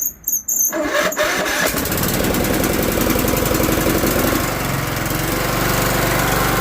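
John Deere 102 riding mower engine starting from cold: a few short sounds in the first second, then the engine catches about a second and a half in and keeps running steadily on choke.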